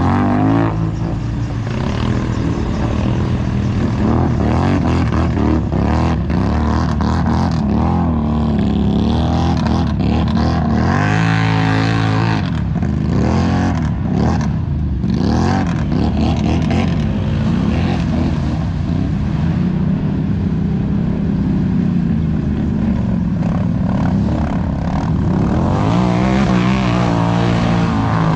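ATV engines revving hard, pitch climbing and dropping again and again, with a harsher, louder stretch about twelve seconds in.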